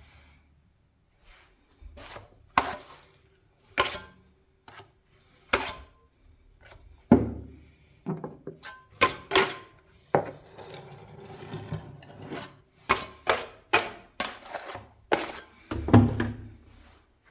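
A run of irregular sharp knocks and taps, with a stretch of scraping or rubbing about ten seconds in and a heavier thud near the end.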